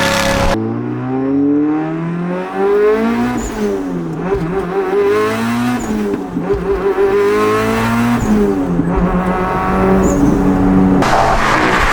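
Tuned 836 hp Mitsubishi Lancer Evolution X's turbocharged four-cylinder engine pulling hard, its pitch climbing and then dropping again several times as it goes through the gears. Near the end it cuts to a rougher, noisier engine sound.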